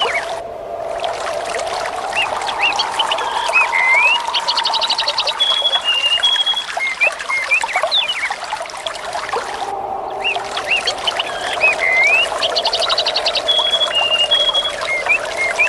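Water trickling and pouring steadily, with birds chirping and whistling over it, including a short rapid trill. The same stretch of birdsong repeats about ten seconds later, as in a looped ambience recording. The higher sounds briefly drop out just after the start and again about ten seconds in.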